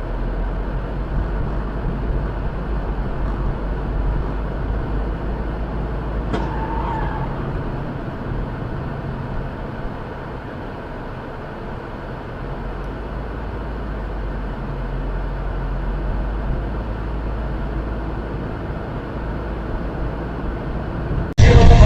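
Steady low rumble and road noise of a car driving, as picked up by a dash cam, with a short click and a brief tone about six seconds in. Loud music cuts in suddenly just before the end.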